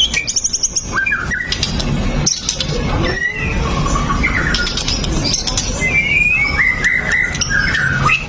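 White-rumped shama singing a continuous, varied song of clear whistles, sliding notes and fast high trills, with a quick high trill near the start.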